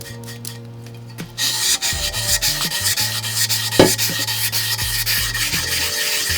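Sandpaper rubbing the old paint on a GT XCR 1000 bicycle frame, starting about a second and a half in and continuing in quick repeated strokes, over background music.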